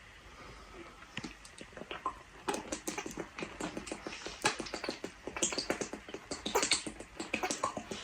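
Quick, irregular clicks and taps of eating a meal, such as a utensil on a takeaway container, growing busier about two and a half seconds in.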